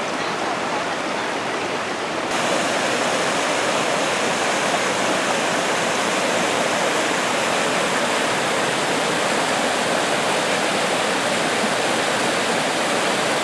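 Rushing water of the Roaring Fork mountain stream, a steady rush that steps up louder about two seconds in.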